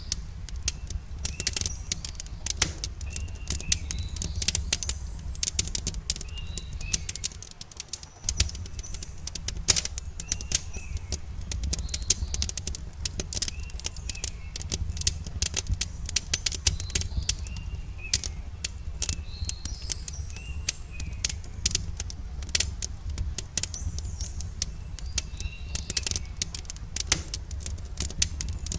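Campfire crackling, with irregular sharp pops and a steady low rumble. Small birds chirp in short repeated calls throughout.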